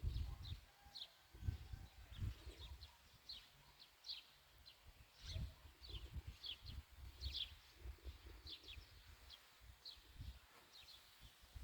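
Faint high chirps of small birds, short and falling in pitch, a couple every second, over irregular low rumbles.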